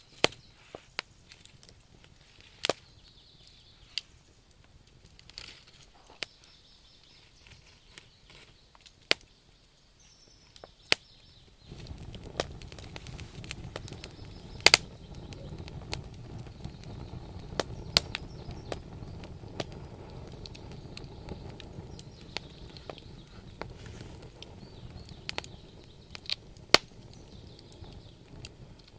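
Wood campfire crackling, with sharp irregular pops of burning logs. About twelve seconds in, a steady low rushing noise joins the crackle and carries on.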